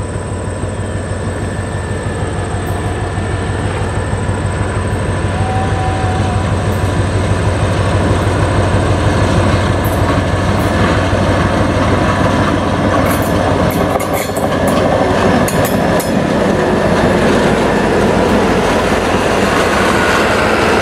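SD40-2 diesel-electric locomotive with a 16-cylinder EMD engine running as it approaches, its steady rumble growing louder over the first half. The passenger cars then roll past with wheels clicking over the rail joints.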